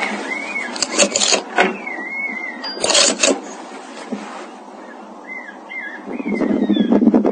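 A bird calling repeatedly in short warbling chirps. Loud bursts of rustling noise come about one and three seconds in, and a busier rustling starts near the end.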